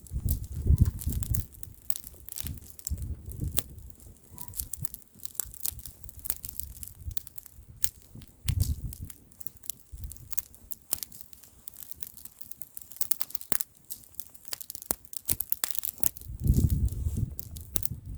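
Wood bonfire crackling and popping in quick, irregular snaps. Gusts of wind buffet the microphone with a low rumble at the start, about eight seconds in, and near the end.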